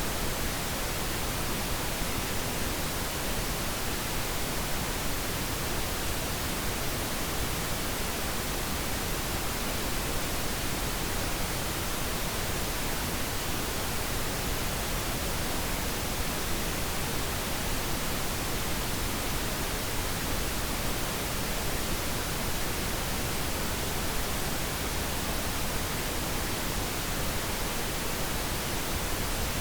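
Synthetic pink noise: a steady, even hiss that stays the same throughout.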